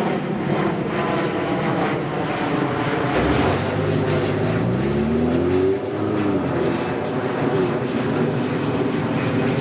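Supercar engines running. One accelerates, its pitch rising for about two seconds before a brief dip in level about six seconds in, as at a gear change, then engine running steadily again.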